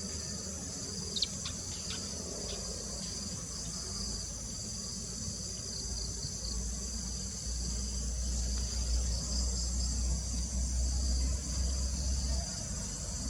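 Steady high-pitched chorus of insects, like crickets or cicadas, with a few short bird chirps about a second in. A low rumble rises under it in the second half and stops just before the end.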